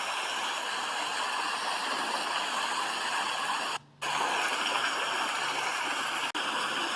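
Steady rain: an even, dense hiss. It cuts out for a fraction of a second a little past halfway, and dips once more briefly near the end.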